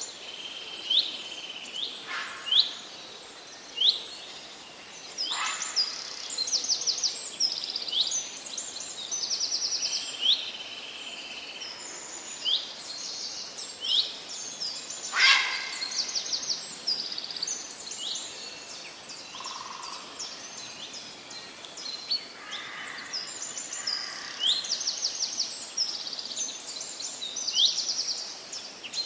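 Several birds calling together: repeated short upward-sweeping whistles, held high notes and fast trills overlapping throughout. A single sharp click stands out about fifteen seconds in.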